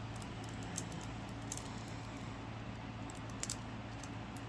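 Quiet handling noise: scattered faint light clicks and rustles over a steady low hum.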